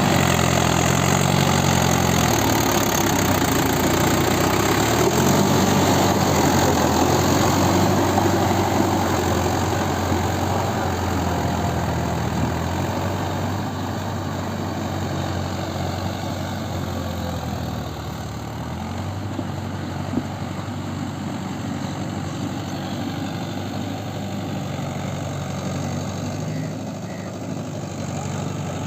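Mahindra Yuvo 575 4WD tractor's four-cylinder diesel engine running steadily, its pitch shifting a few times as engine speed changes. It is louder for about the first ten seconds, then a little quieter.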